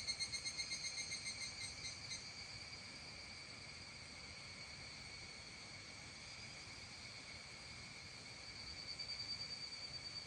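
Evening rural chorus of calling creatures: a close, fast-pulsing high trill fades out about two seconds in, leaving a steady high-pitched chorus that swells again near the end.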